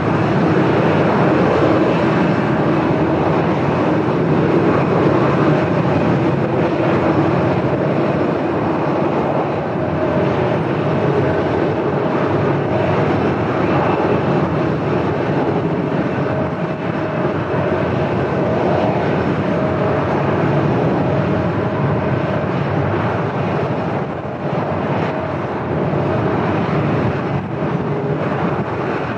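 Airliner engines running steadily on the airfield, mixed with gusty wind noise.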